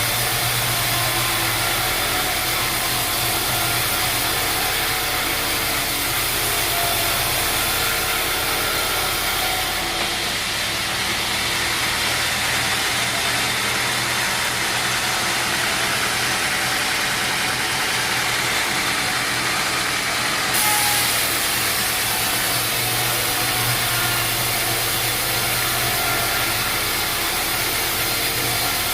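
Sawmill machinery running steadily: an engine-like hum under a broad hiss. The highest part of the hiss drops away for about ten seconds in the middle, then returns.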